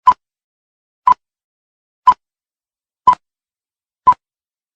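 Five short electronic beeps at one steady mid pitch, evenly spaced one per second, with dead silence between, like a countdown or test-tone leader.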